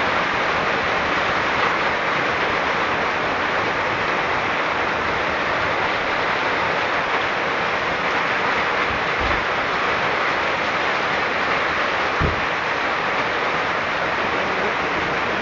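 Steady storm rain falling, an even hiss, with two faint low bumps about nine and twelve seconds in.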